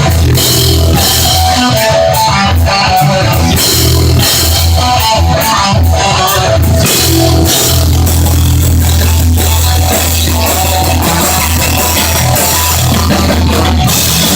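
Heavy metal band playing live and loud: distorted electric guitar over heavy bass and a pounding drum kit.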